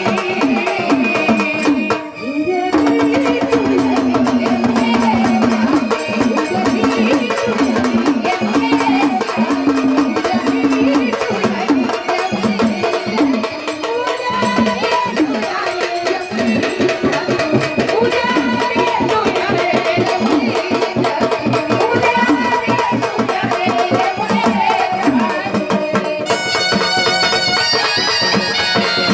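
Marathi gondhal folk music: fast, steady hand-drum strokes under a wavering melodic line, with a brief break about two seconds in and a brighter instrumental passage near the end.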